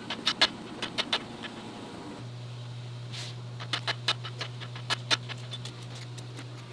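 Irregular light clicks and taps from handling and packing, over a steady low electrical hum.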